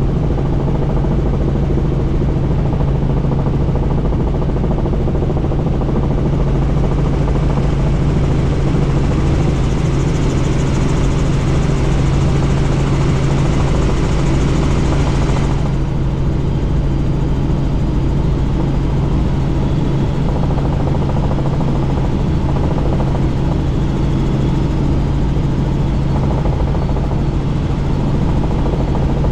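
Helicopter in flight heard from inside the cabin with the doors off: a steady low drone from rotor and engine under rushing wind noise. A higher hiss builds from about six seconds in and cuts off suddenly about halfway through.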